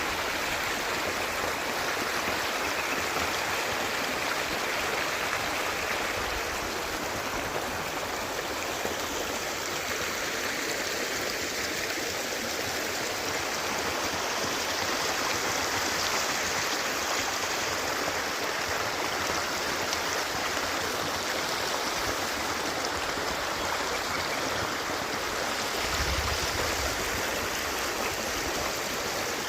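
Water flowing steadily in a stream.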